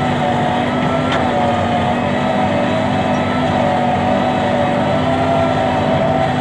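New Holland 7610S tractor's diesel engine running at a steady speed, with a constant droning hum.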